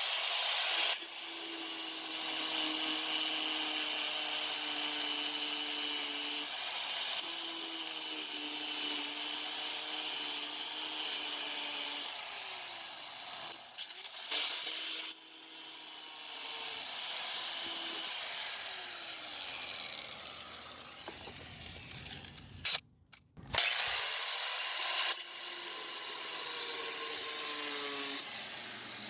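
Grinder with a cutting wheel running and cutting into the metal lock nut on a truck seat's recliner mechanism, a steady grinding hiss over the motor's whine. The cutting stops briefly a few times, once fully for a moment about three-quarters of the way through.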